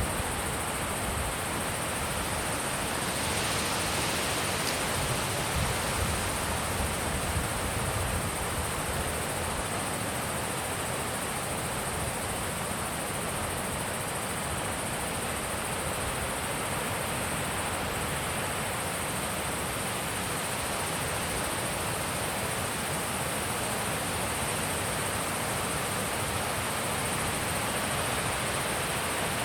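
Steady wind blowing, with low gusts buffeting the microphone in the first several seconds.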